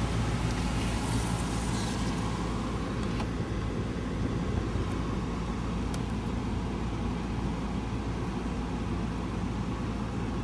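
A car driving, heard from inside the cabin: a steady low engine rumble with tyre and road noise.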